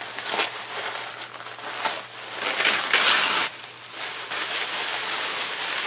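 Wrapping being handled and torn open by hand, crinkling and rustling, with a louder burst of crinkling about two and a half seconds in.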